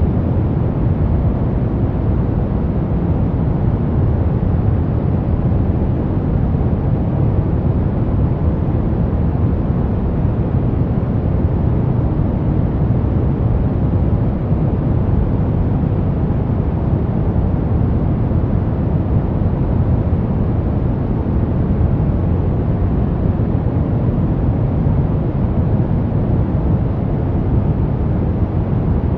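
Steady brown noise: a deep, even rumbling hiss, strongest in the bass and fading toward the treble, with no changes or events.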